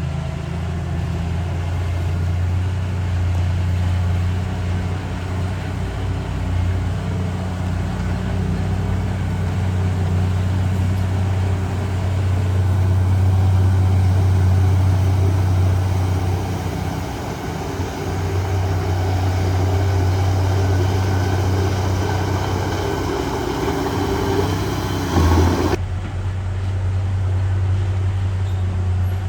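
Heavy diesel earthmoving machinery running with a steady low drone and a rushing noise over it; the rushing noise cuts off suddenly near the end while the drone carries on.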